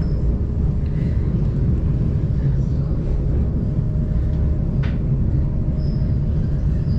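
Steady low rumble of the Cremallera de Montserrat rack railway train running, with a single sharp click about five seconds in.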